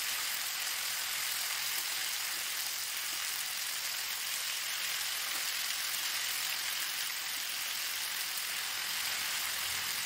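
Onions, capsicum and masala paste sizzling steadily in hot oil in a pan.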